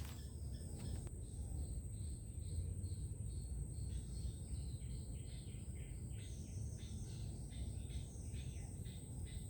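Wetland ambience: many small birds chirping in quick short calls over a steady high-pitched insect drone, with a low rumble underneath.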